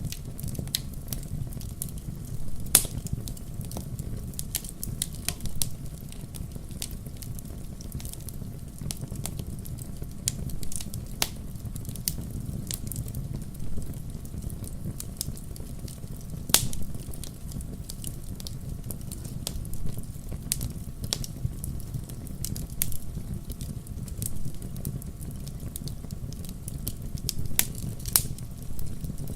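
Wood fire crackling in a fireplace: irregular sharp pops and snaps of burning logs over a low, steady rumble of flame. The loudest snaps come about three seconds in, around the middle, and twice near the end.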